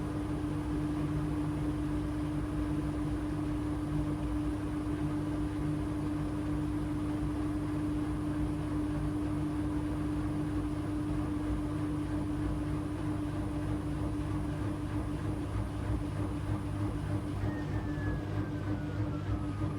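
AEG LR8FL160EX front-loading washing machine spinning at a steady high speed, a constant hum over a low rumble. Near the end a fainter whine glides down in pitch.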